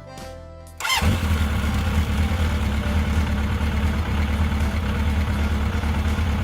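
A motor vehicle engine starts abruptly about a second in, with a short rising whine, and then runs steadily with a deep, throbbing rumble.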